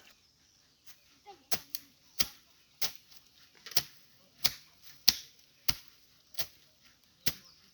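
A steady series of sharp strikes from a hand tool, about a dozen in all, coming roughly one every two-thirds of a second, as work goes on clearing a stream.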